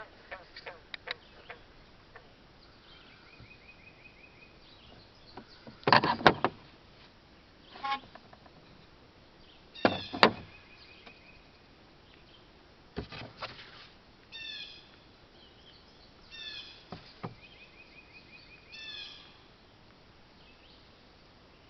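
Birds calling: a short fast trill heard twice and several chirps in the second half. Between them come a few sharp clicks and two loud knocks or rustles, with a smaller one later.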